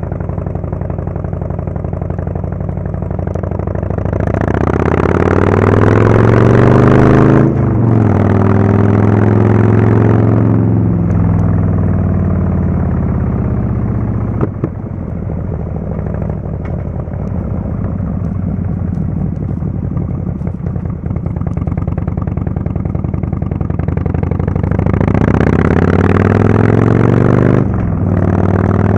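Harley-Davidson Fatboy S's Screamin' Eagle Twin Cam 110 V-twin, through a Kesstech exhaust, under way: it pulls hard from about four seconds in with an upshift near eight seconds, eases off and runs lower for a while, then pulls up again near the end with another shift.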